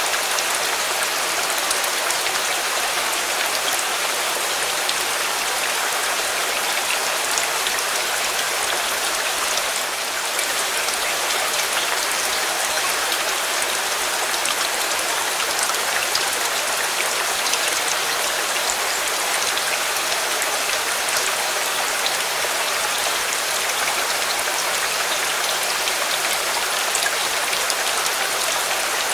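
Steady rain falling, an even dense hiss with scattered sharp drop ticks.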